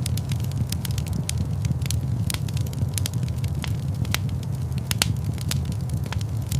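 Wood fire crackling in a stone fireplace: irregular sharp pops and snaps, a strong one about five seconds in, over a steady low rumble.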